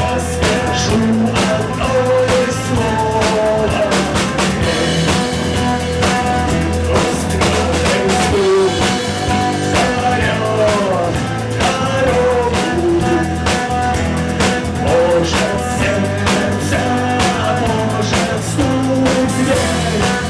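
Rock band playing live: drum kit with steady strokes, bass and electric guitar, with a lead line that bends up and down in pitch.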